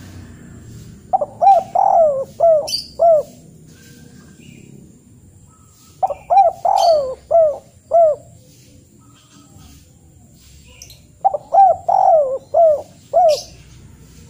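A bird calling: three short phrases of five or six quick rising-and-falling notes, about five seconds apart.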